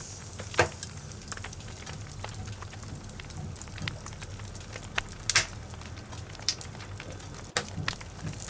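Logs burning in a fireplace, crackling with irregular sharp pops of varying strength over a low steady rumble of the flames; the loudest pops come about half a second in and again around five seconds in.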